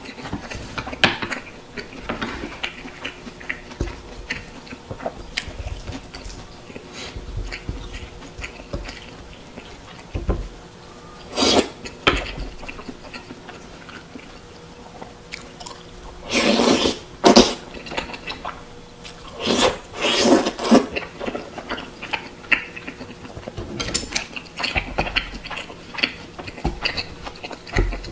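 Close-up chewing and wet mouth sounds of eating chewy rice cakes in thick sauce, with many small smacks and clicks. A few louder, longer bursts of mouth noise come about 11 seconds in and again around 16 to 21 seconds.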